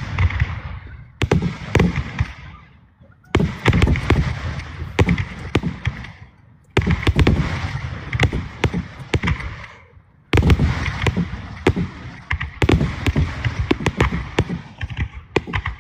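Fireworks display: volleys of rapid bangs and crackling, a new volley starting every three or four seconds and trailing off, heard from inside a car.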